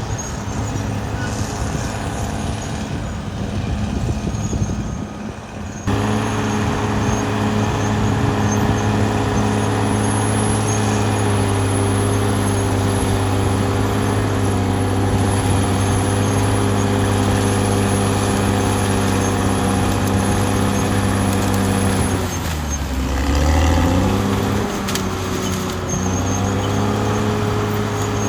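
Caterpillar D6R XL bulldozer's diesel engine running steadily under work, with a rougher, noisier sound that changes abruptly to a steady engine note about six seconds in. A little past two-thirds of the way through, the engine note drops and then picks back up.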